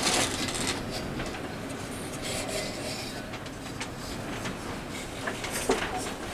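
Hand work on the lantern's metal: steady rubbing and scraping, with scattered clicks and a sharper knock near the end.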